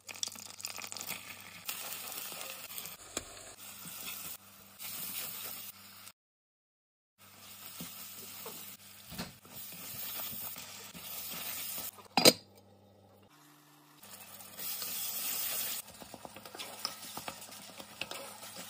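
Food sizzling and frying in a pan while being stirred with a wooden spatula: butter first, then onions with masala, then tomatoes, in several short cuts with a brief silence about six seconds in. A low steady hum runs underneath, and there is one sharp knock about twelve seconds in.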